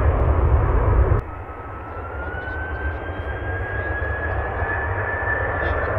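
Jet airliner engine noise: a loud low rumble that cuts off abruptly about a second in, then a steady rush with a high engine whine slowly rising in pitch.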